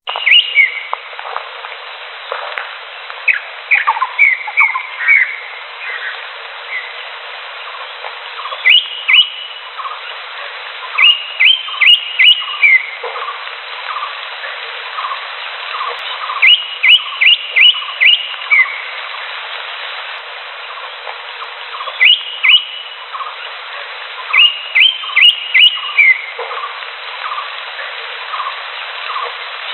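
Green leafbird (cucak hijau) singing: groups of three to five sharp, clear whistled notes repeated every few seconds, over a steady run of softer short notes at about two a second. The sound is thin, with its lows and highs cut away.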